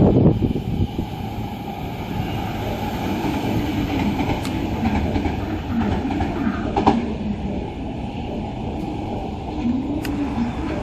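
Electric commuter train running along the track, loudest right at the start and then steady.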